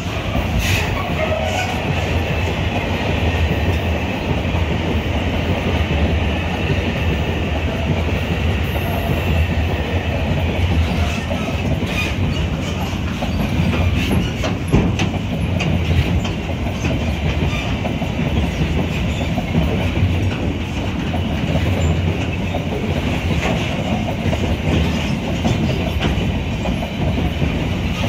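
Freight train of container flatcars rolling past close by: a steady rumble of steel wheels on the rails, with scattered clicks and clacks as the wheels pass over the track.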